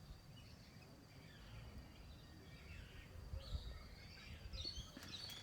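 Several birds calling and chirping over a low wind rumble, the calls growing busier in the second half.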